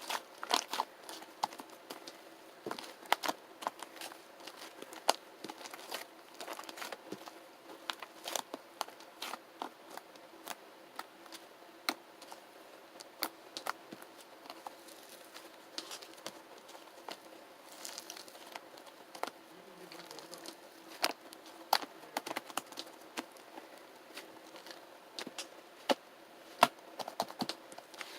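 Clear slime mixed with shaving foam being squished and pressed by hand, giving irregular sticky pops and crackles, several a second, with some louder snaps.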